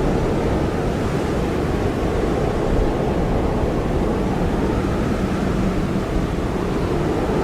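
Blizzard wind blowing steadily, a dense, low rushing noise that never lets up. A faint wavering whistle rises and falls through the middle.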